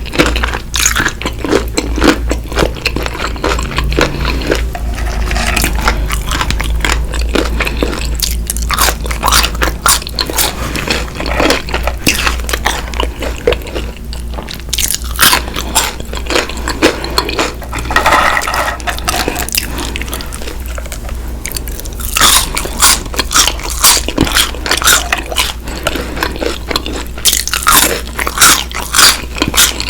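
Close-miked biting and chewing of crispy fried chicken: irregular crunches of the breaded skin with wet chewing between, the sharpest bites coming in clusters in the last third.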